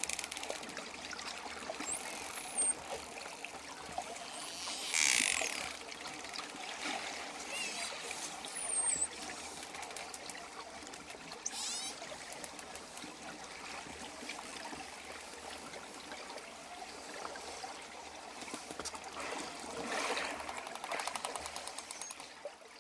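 Dolphins whistling and clicking over a steady wash of water noise: a few short high whistles, a spell of rapid clicking partway through, and several swells in the water noise. The sound fades down at the very end.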